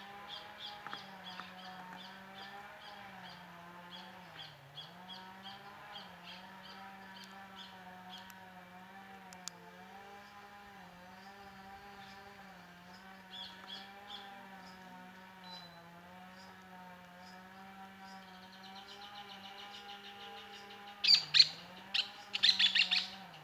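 Small birds chirping, short high notes repeated about three times a second, with a cluster of louder, closer chirps near the end. Under the chirps runs a steady low hum.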